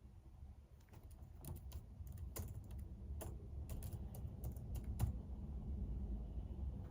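Typing on a computer keyboard: irregular keystroke clicks that begin about a second in and continue in uneven runs.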